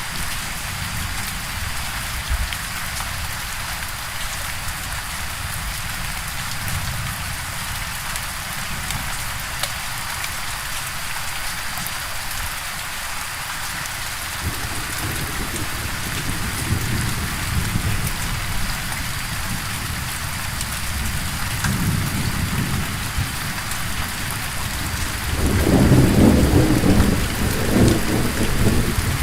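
Steady heavy rain hissing, with thunder rumbling low in the background. The thunder swells twice, then comes loudest in a long rolling rumble near the end.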